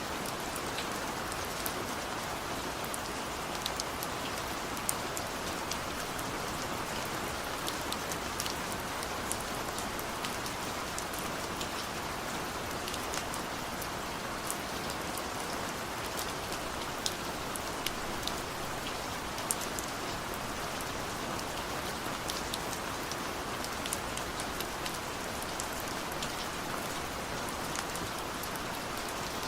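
Heavy rain falling steadily, a dense hiss with many sharp individual drop taps scattered through it.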